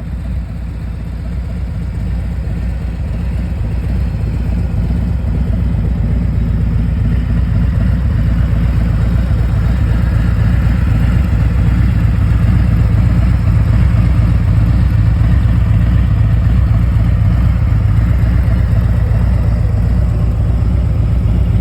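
2020 Harley-Davidson Street Glide Special's Milwaukee-Eight 114 V-twin idling through an aftermarket Rinehart exhaust, a steady deep rumble that grows louder over the first several seconds and then holds.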